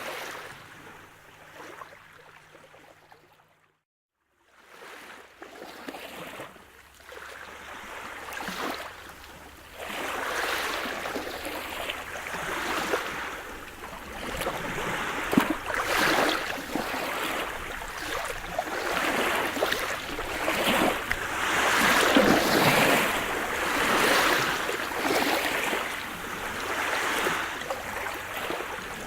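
Sea surf: waves breaking and washing in, swelling and ebbing every few seconds. The sound fades out to a brief silence about four seconds in, then returns and builds, louder from about ten seconds on.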